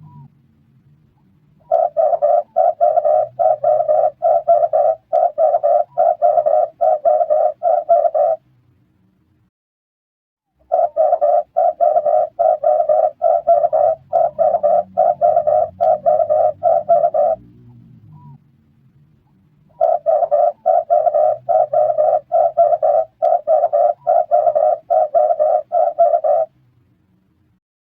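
Red turtle dove cooing in rapid, pulsed phrases: three bouts of about six seconds each, separated by short pauses.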